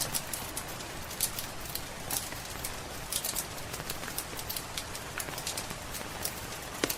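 Rain on a roof mixed with a crackling wood fire: an even hiss with irregular sharp pops and snaps, one louder pop near the end.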